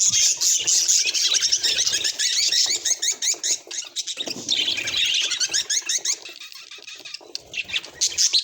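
Budgerigars chattering and warbling in a dense run of fast chirps. The chatter thins out about six seconds in and picks up again near the end.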